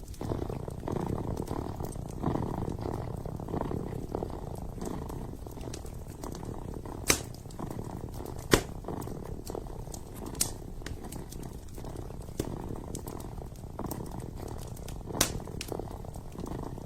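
A kitten purring steadily close to the microphone, with a few sharp crackles and pops from a burning wood fire.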